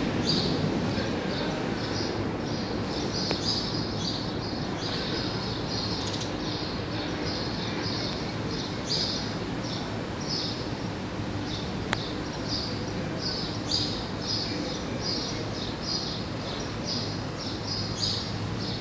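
Small birds chirping: short high chirps, several a second, repeated throughout over a steady low background hum.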